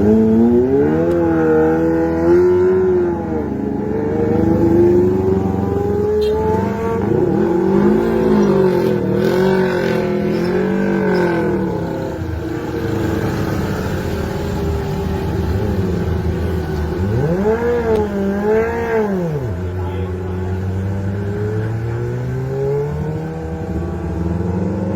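Motorcycle engines labouring up a steep climb, more than one running at once, their pitch repeatedly rising and falling as the throttle is worked, with one sharp rev-up and drop about two-thirds of the way through.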